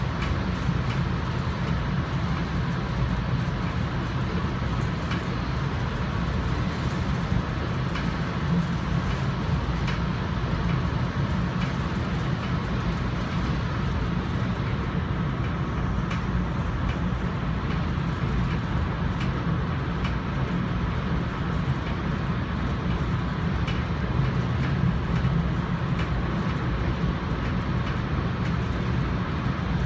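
Steady running noise of an NJ Transit commuter train heard from on board: a continuous low rumble of wheels on rail, with faint clicks here and there.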